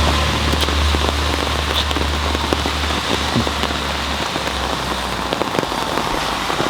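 Steady rain falling, with scattered individual drops pattering, over a low engine hum that fades away a little past halfway through.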